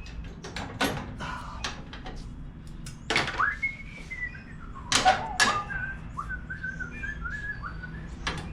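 A person whistling a few stepping notes, in two short phrases, over scattered sharp clicks and knocks of parts and tools being handled.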